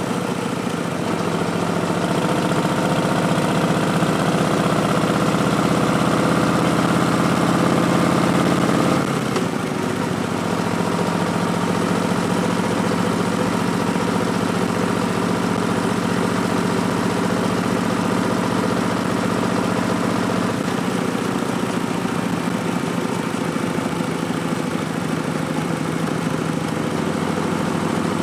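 Harley-Davidson Street Bob's Milwaukee-Eight 107 V-twin running through Vance & Hines Twin Slash slip-on mufflers, with a steady note. About nine seconds in, the pitch and loudness drop, and the note changes again about twenty seconds in.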